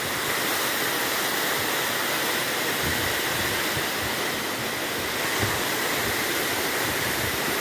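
Small waterfall splashing steadily into a pool: an even, continuous rush of falling water.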